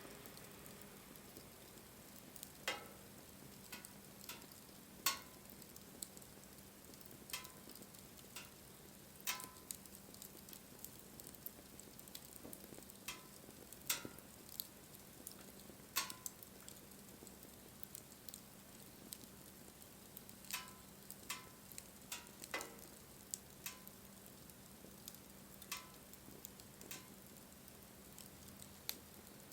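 Wood fire crackling, with irregular sharp pops every second or two over a faint steady hiss.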